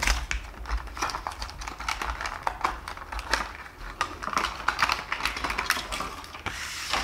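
A Mattel diecast toy's card-and-plastic blister package being opened by hand: a quick, irregular run of clicks, crinkles and scrapes of stiff plastic and cardboard.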